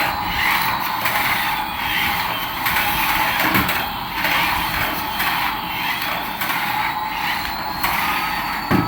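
Small electric toy motor and gears whirring steadily, with a faint steady whine.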